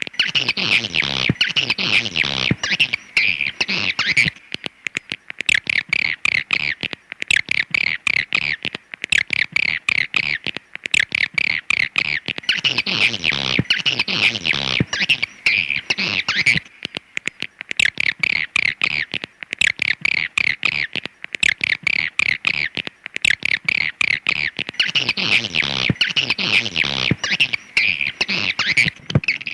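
Swiftlet calling sound of the kind played to draw swiftlets into a nesting house: a dense, unbroken chattering of rapid high chirps and clicks. Three times, at the start, about halfway and near the end, a cascade of falling tones sweeps down beneath it.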